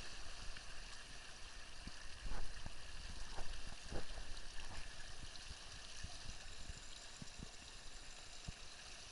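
Water rushing and splashing along a Laser sailing dinghy's hull as it sails, with a few sharper slaps, the loudest about two and a half seconds in.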